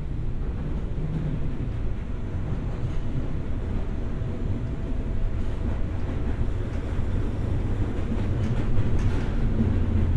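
JR West 201 series electric train heard from inside the car while running: a steady low rumble of wheels on rail, with a few clicks in the last seconds.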